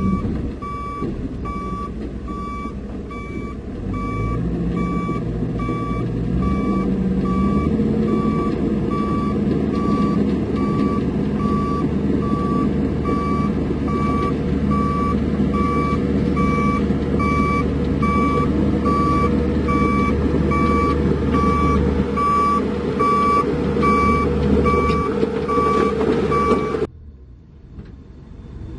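Heavy vehicle's reversing alarm beeping steadily, about one and a half beeps a second, over a loud diesel engine that revs up about four seconds in and then holds. Both cut off abruptly near the end.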